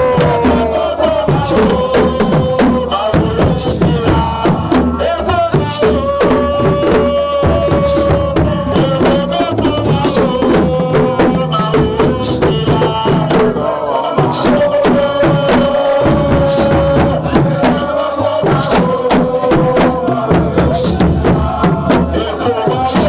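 Loud music of drums with chanting voices, the drum strokes dense and unbroken. A long held note comes back every few seconds over the drumming.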